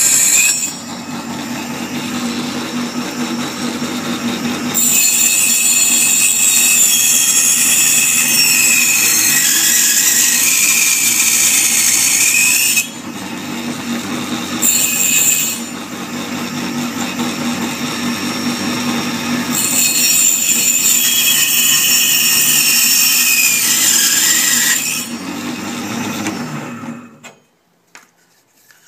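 A small electric motor-driven machine running, its sound switching between louder and quieter stretches several times, then stopping about 27 seconds in.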